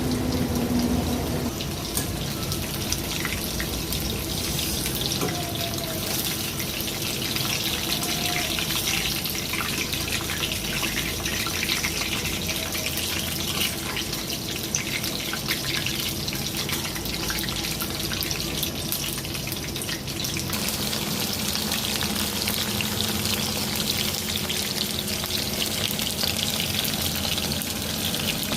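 Chicken frying in hot oil in a pan: a steady sizzle with many small crackles.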